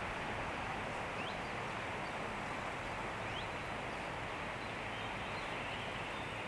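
Wind blowing steadily through forest trees, a constant rushing of leaves and branches. A bird gives two short, faint rising chirps, about a second in and again about three seconds in.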